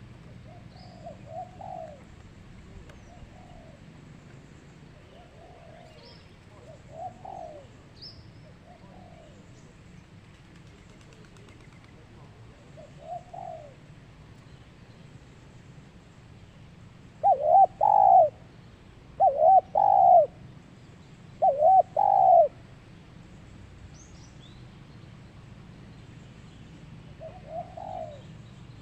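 Zebra dove (perkutut) cooing: soft coo phrases at intervals, then three loud coo phrases in quick succession in the second half, over a steady low hum. A few faint, short high chirps from another small bird come in between.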